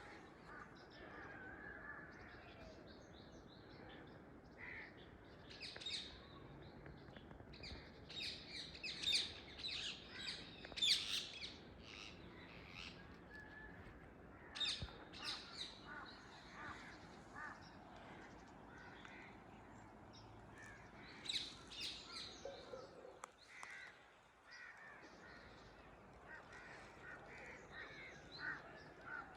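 Indian ringneck (rose-ringed) parakeets calling: short, shrill screeches that come in clusters, loudest about eight to eleven seconds in, with more bursts near the middle and two-thirds of the way through.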